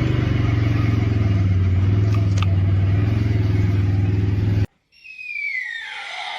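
A loud, steady motor drone with a low hum that cuts off suddenly about four and a half seconds in. After a moment's silence, a high whine glides down in pitch.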